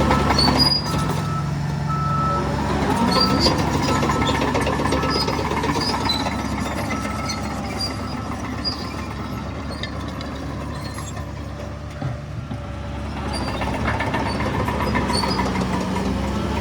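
Heavy diesel earthmoving machinery running, with a reversing alarm beeping repeatedly in the first few seconds. The engine eases off and then picks up again near the end.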